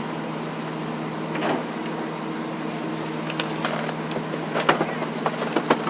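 Leach 2R2 rear-loader garbage truck's compactor running steadily with a hum. About four and a half seconds in, a series of sharp cracks and snaps begins as the jacuzzi's shell is crushed in the packer.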